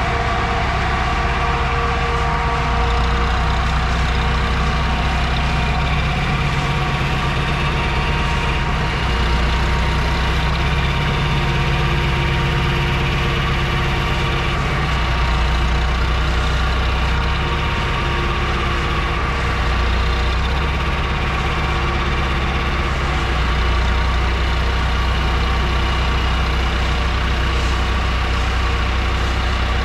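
Truck engine running steadily, a low, even engine sound with only slight swells in level.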